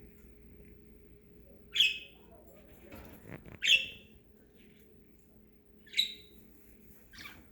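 Pet budgerigars giving three short, sharp chirping calls about two seconds apart, with a soft rustle just before the second and a few fainter calls near the end.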